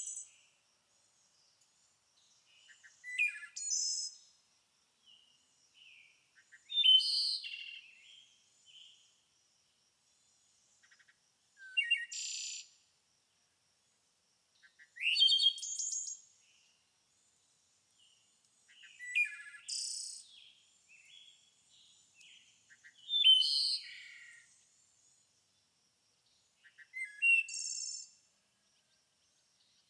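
Songbird song: short, varied phrases of chirps and trills, one every three to four seconds, with near silence between.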